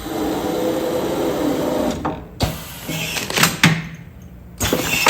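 Automatic food-container sealing machine running a sealing cycle: a steady motor hum for about two seconds, a sharp clack, more mechanical clatter, then a louder rush of noise near the end.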